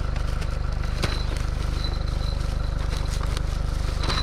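A vehicle engine idling steadily, with a couple of short clicks from items being handled, about a second in and again near the end.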